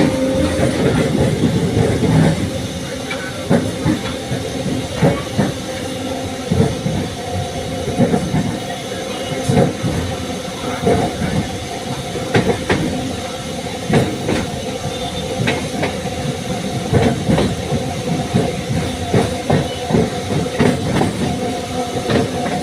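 MEMU electric train running at speed, with a steady hum and irregular wheel clatter and knocks from the rails.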